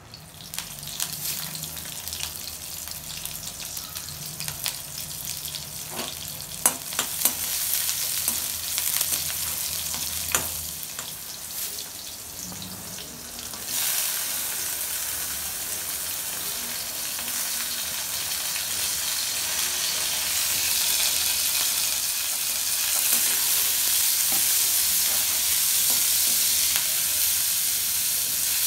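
Hot oil with fennel seeds sizzling in a steel kadai, with a few sharp clicks in the first half. About halfway through, the sizzle jumps suddenly louder as chopped onions go into the oil, then keeps up steadily as they are stirred and sautéed with a spatula.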